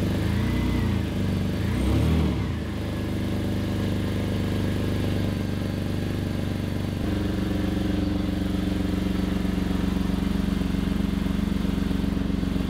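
BMW E60's engine idling, revved up and back down twice in the first couple of seconds; about seven seconds in the running note shifts and settles into a steady idle.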